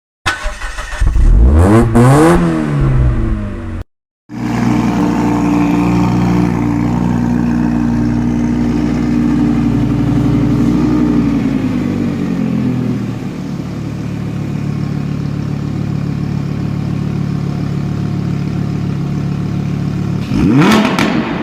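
2015 Audi R8 V10 Plus's 5.2-litre V10 engine: a quick rev that rises and falls, then after a brief break a steady idle that drops to a lower idle speed about halfway through, and one more sharp rev up and back down near the end.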